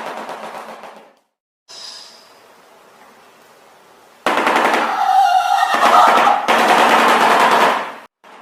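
Shoebill clattering its bill, a rapid rattle of the bill's halves knocking together. A short rattle fades out about a second in. After a faint stretch, a long, loud clatter starts about four seconds in and stops just before the end.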